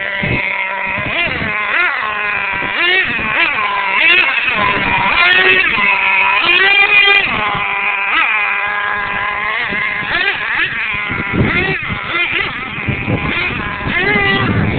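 Radio-controlled monster truck motor revving, its pitch rising and falling again and again as the throttle is worked on and off.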